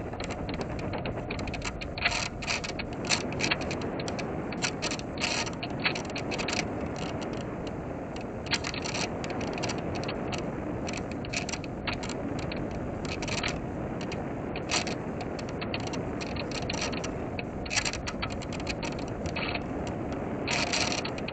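Onboard audio from a small electric RC plane gliding with its motor off: a steady rush of airflow, broken by many short, irregular whirring bursts from the micro servos moving the control surfaces.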